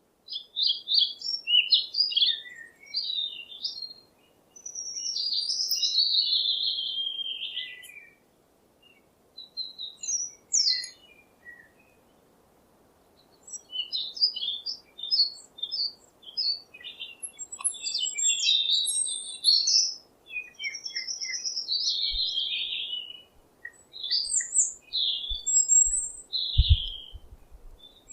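Birds chirping and singing: quick bursts of high chirps and longer warbling phrases, broken by a few short pauses.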